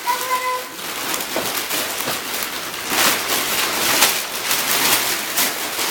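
Wrapping paper being torn and crumpled off a large gift: a continuous crackling rustle with louder rips about three and four seconds in.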